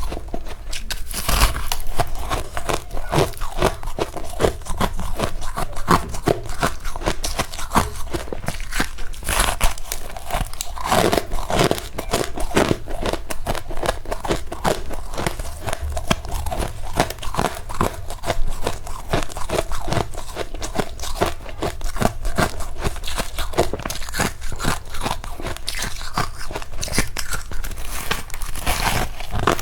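Close-up crunching and chewing of powdery freezer frost, a dense, continuous run of crisp crackles as mouthfuls are bitten and ground.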